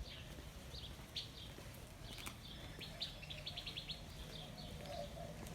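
Birds chirping faintly: scattered short high chirps, with a quick run of chirps about halfway through.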